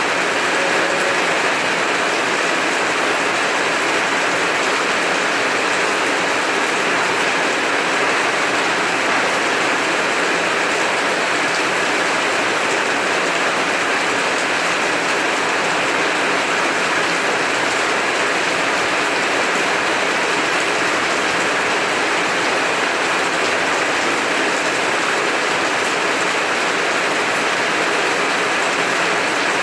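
Heavy rain falling steadily, an even unbroken hiss without thunder.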